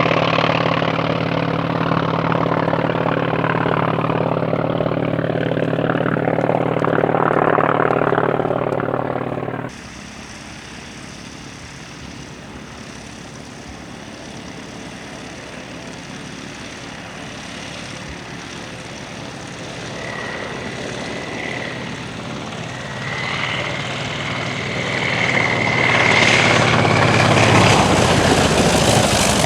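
North American T-28 Trojan's Wright R-1820 nine-cylinder radial engine and propeller, loud and steady at first. The sound drops off suddenly about ten seconds in, then builds again with a high whine over it as the aircraft comes back, loudest in the last few seconds as it passes.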